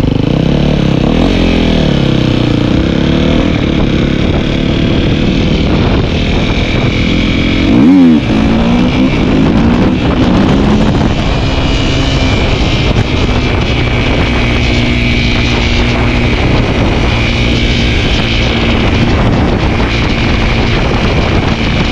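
Dirt bike engine running under way, its pitch shifting up and down with the throttle. About eight seconds in the revs drop sharply and climb back, the loudest moment.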